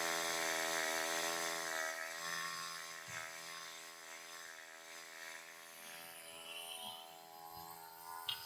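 Portable bandsaw sawmill's gas engine running at steady high revs as the blade cuts through a log, a constant mechanical drone with a hiss of sawing, easing slightly in level. A sharp click near the end.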